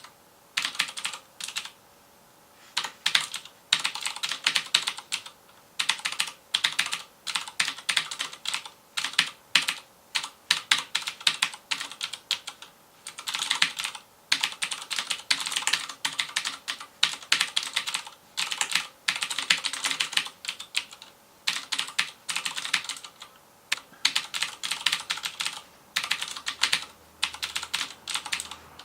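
Typing on a FILCO Majestouch Convertible 2 mechanical keyboard with clicky Cherry MX Blue switches: fast runs of keystrokes broken by short pauses of about a second.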